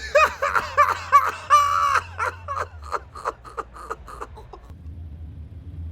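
One voice laughing in a run of short 'ha' pulses that grow weaker and stop about four and a half seconds in. A low steady rumble remains after the laugh.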